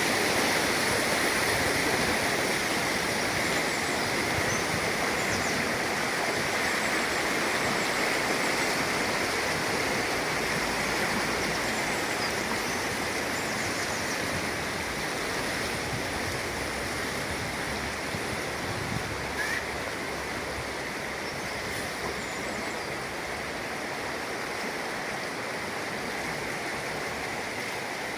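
Steady rush of running water, gradually getting a little quieter.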